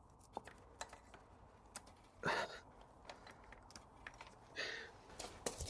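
Faint, scattered light clicks and two short rustling scrapes, about two seconds in and again near the end: small metal parts and tools being handled by hand.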